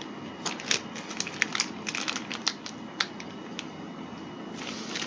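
Plastic packaging and tray of a DIY candy kit being handled, crinkling and clicking: a run of sharp, irregular crackles for about three seconds, then only a faint steady hiss.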